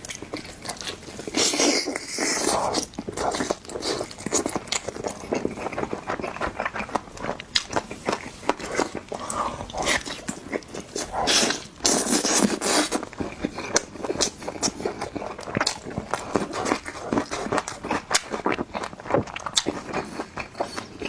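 Close-miked eating: biting and chewing noodles, chicken and sausage, with many quick clicks and crunches and two longer noisy stretches, about two seconds in and near the middle.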